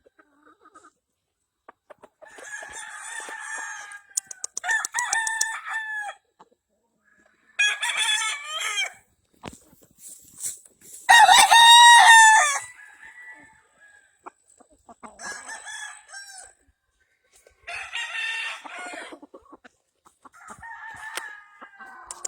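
Gamefowl roosters crowing one after another, about seven crows, some distant and some close, the loudest a near crow about halfway through. Short bursts of clucking come between them.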